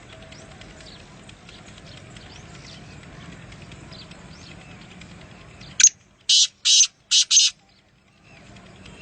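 Small birds chirping faintly and continuously, then five loud, harsh bird calls in quick succession over about two seconds, with the background chorus dropping out around them.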